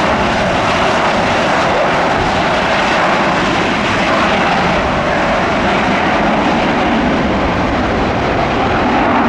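Jet aircraft engines running, a loud, steady rushing noise that holds level throughout.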